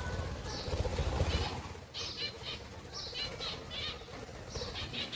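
Cage birds chirping in short repeated bursts, with a flurry of wings flapping in the first second and a half.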